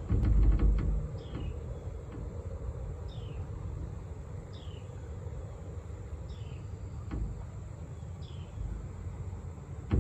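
Outdoor ambience: a bird repeats a short falling chirp about every one and a half to two seconds over a steady high insect buzz and a low rumble. A low thump comes about half a second in.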